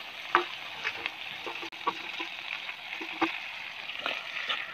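Chicken, potatoes and greens frying in a kadai with a steady sizzle, while a metal spoon stirs them, clinking and scraping against the pan every second or so.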